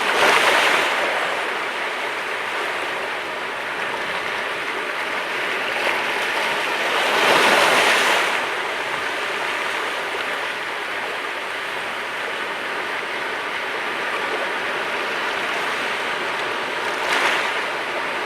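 Sea waves breaking and washing on the shore in a steady rush, with a louder surge as a wave breaks right at the start, a bigger one about seven seconds in, and a shorter one near the end.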